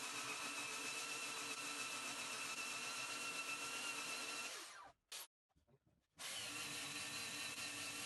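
Electric power tool motor running with a steady whine. It winds down and cuts out a little past halfway, then starts again about a second later.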